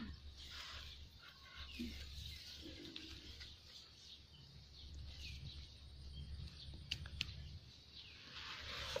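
Birds chirping faintly now and then over a low steady rumble, with a couple of sharp clicks about seven seconds in.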